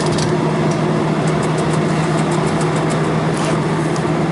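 Steady machine hum with a strong low drone, and light metallic clicks and taps from tools and fittings being handled.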